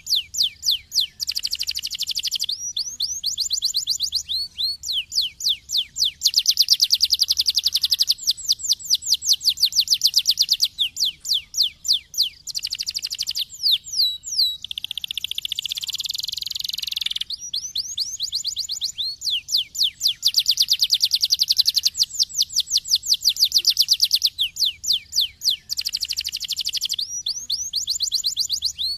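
Canary singing continuously: fast runs of repeated whistled notes, each tour a rapid trill of descending sweeps, changing to a buzzy, rolling passage near the middle.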